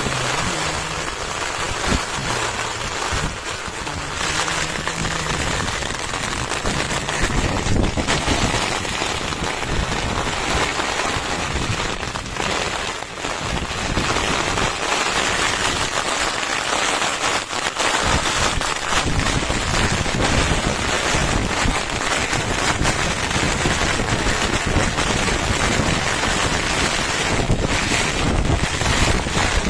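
Heavy rain falling steadily, a dense even hiss, with gusts of wind rumbling on the microphone at times.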